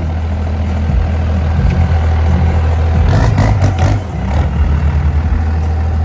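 A diesel truck engine running loudly with a deep, steady rumble. Short hissing bursts cut in about three to four seconds in.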